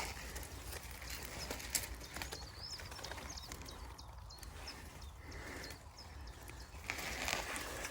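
Footsteps and rustling as someone pushes through dense undergrowth of bramble and nettles, with a few faint bird chirps in the background.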